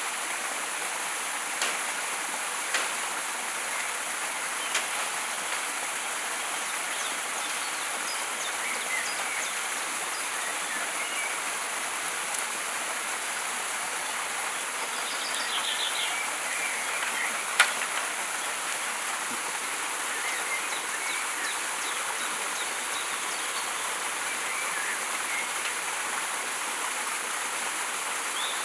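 Rainforest ambience: a steady rush of flowing stream water under a constant high insect drone, with scattered short bird chirps. A few sharp clicks come through, the loudest about eighteen seconds in.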